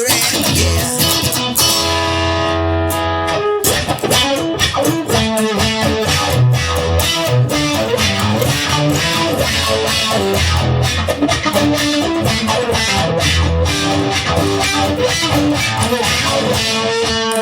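Instrumental rock passage: electric guitar playing over a bass guitar line, with no vocals.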